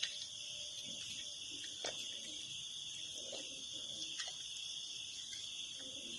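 Steady, high-pitched chorus of insects droning without a break, with a few faint clicks and knocks of handling work.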